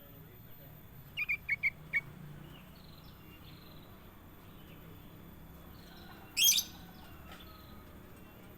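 Kutilang emas, a bulbul, calling: a quick run of four short chirps about a second in, fainter calls between, and one much louder brief call a little past six seconds.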